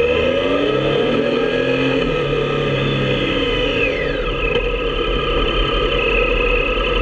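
Motorcycle engine running on the move; its note rises in the first second and falls away again about three to four seconds in.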